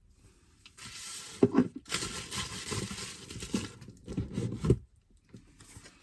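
Packaging being handled and unwrapped: a run of rustling and crinkling with a few sharp knocks, starting about a second in and stopping shortly before the end.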